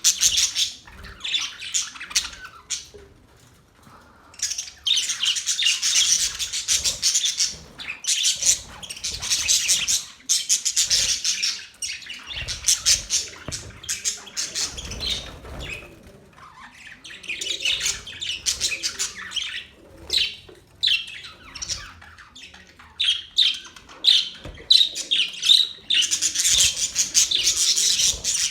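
Budgerigars (budgies) chattering and chirping, a busy warble of squawks and chirps in bouts of a few seconds with brief lulls between.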